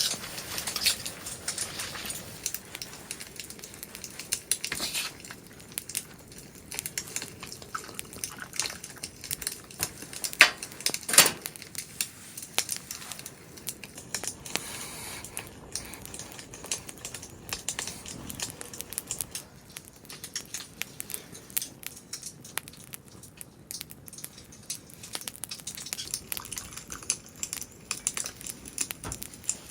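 Scattered small clinks, clicks and rustles of cooking gear and packaging being handled, with two sharper knocks about ten and eleven seconds in.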